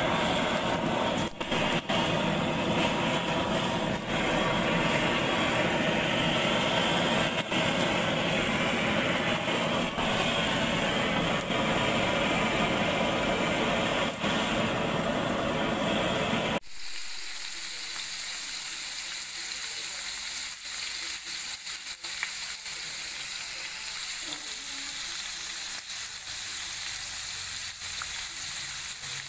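A steady, loud rushing noise for about the first seventeen seconds, then a sudden cut to a quieter, hissing sizzle of small birds (sparrows) frying in a pan.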